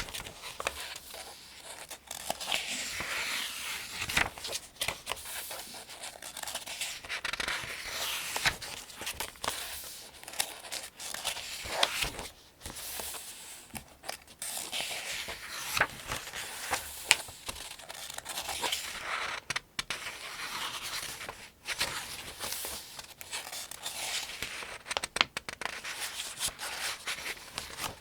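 Pages of the Farmers' Almanac being turned by hand one after another: paper rustling and crinkling, with small sharp snaps as each page flips over, a new page every few seconds.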